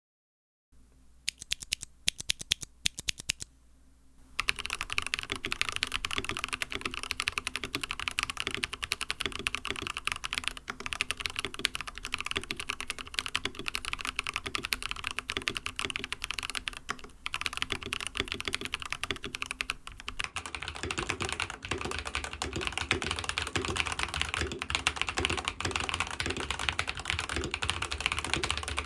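Typing on a custom mechanical keyboard with lubed non-clicky MMD Coral 45 g switches and a silicone plate foam. A few separate keystrokes come first, then fast continuous typing from about four seconds in; the tone of the clacks changes a little about two-thirds of the way through.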